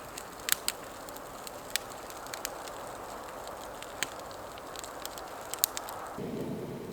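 Wood campfire burning: a steady hiss broken by irregular sharp pops and crackles. Near the end a brief, lower rushing sound joins in.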